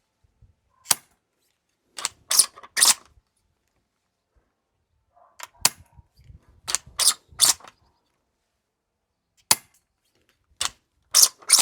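3D-printed DVL-10 gas-powered bolt-action airsoft rifle being worked and test-fired: about a dozen sharp, short clicks and cracks from the bolt and the gas shots, some single and some in quick runs of three or four.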